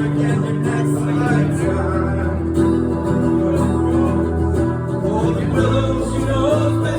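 Live acoustic band music, with guitar, playing steadily.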